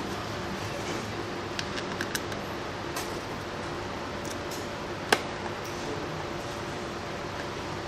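Scattered small metallic clicks and taps of screws and a screwdriver as the cover is screwed onto the semiconductor cooler, the sharpest about five seconds in, over a steady background hum.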